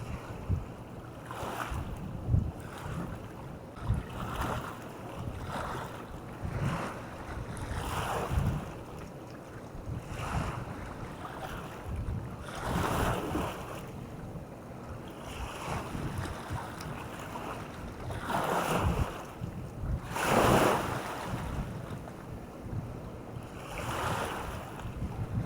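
Waves breaking and washing onto the beach in repeated surges, the loudest a few seconds before the end, with wind rumbling on the microphone.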